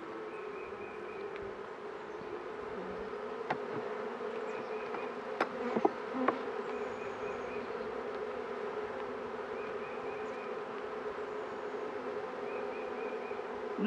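Honeybees buzzing steadily over an open hive, a constant low hum from the many bees on the frames. A few light clicks sound around the middle.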